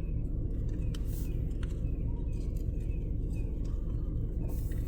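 Vehicle engine idling with a steady low rumble, heard from inside the cab, with a few faint clicks.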